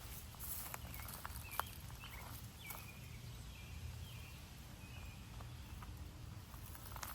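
Faint short bird chirps, several in quick succession in the middle, over a steady low outdoor rumble, with a few scattered clicks.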